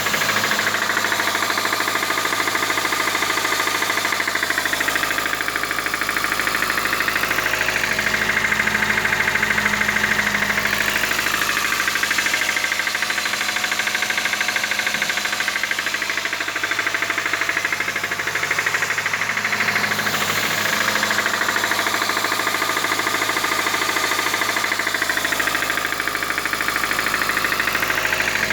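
Petrol engine running with a fast, steady mechanical knocking and valve clatter, the sound of a knocking engine. The running speed rises and falls a little now and then.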